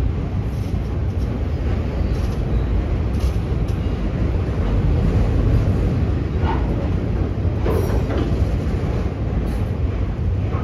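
Freight train of autorack cars rolling past: a steady, loud rumble of wheels on rail, with two brief squeaks about six and a half and eight seconds in.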